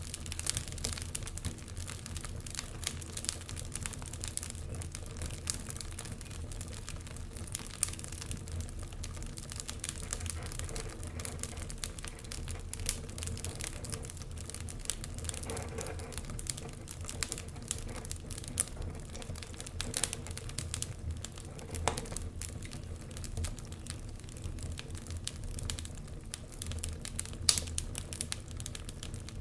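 Wood fire crackling in a fireplace: a constant stream of small irregular pops and snaps over a low, steady rumble, with a couple of sharper pops standing out.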